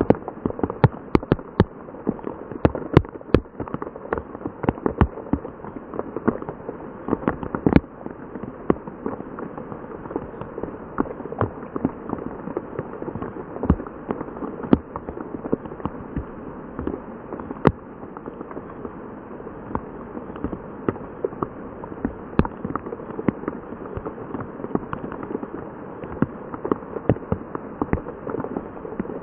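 Heavy rain: a steady hiss of rainfall with many sharp, loud drops striking close by, the hits thickest during the first few seconds.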